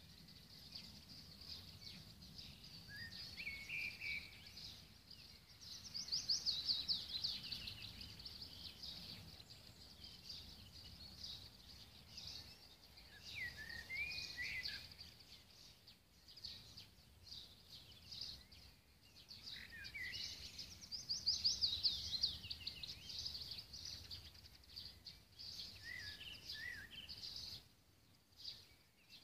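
Songbirds singing outdoors: repeated high chirps and rapid trills, with two louder trilled phrases, one about six seconds in and another about two-thirds of the way through, over a faint low rumble.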